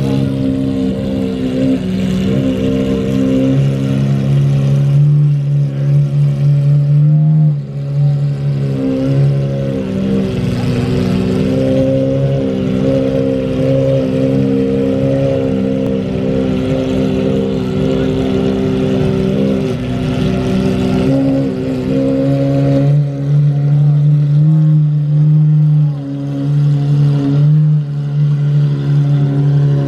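Car engine running steadily at speed, its pitch shifting a few times.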